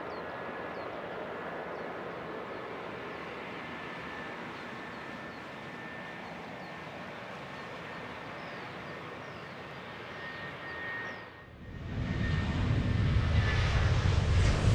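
Jet airliner engines heard at a distance: a steady rumble with a faint thin whine. About eleven and a half seconds in, it cuts abruptly to a much louder, deeper jet rumble that keeps building.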